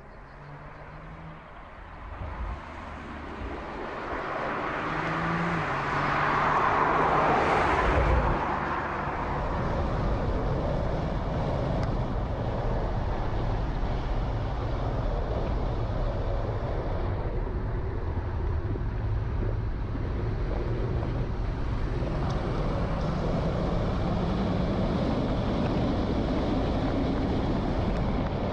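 BMW Z4 roadster driving. The engine and tyre noise grows louder and peaks in a rush about eight seconds in, then settles into a steady run.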